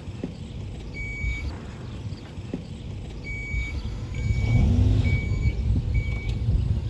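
A vehicle's reversing alarm beeping five times over a low engine rumble, as the vehicle backs up; the rumble grows louder about four seconds in.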